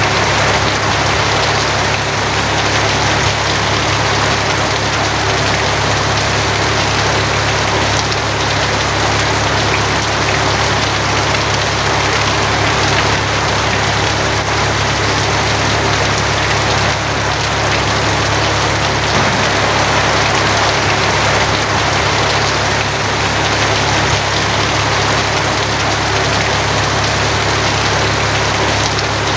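Steady heavy rain drumming on a tin roof, an even hiss with no separate drops or claps standing out, over a continuous low rumble.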